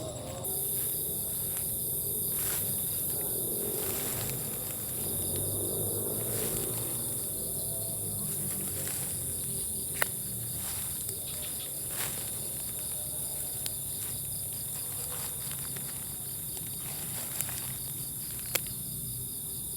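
Night insects and crickets chirring steadily in a high, shrill band, which comes in abruptly just after the start. A few sharp clicks or snaps are heard over it, the loudest about halfway through and more near the end.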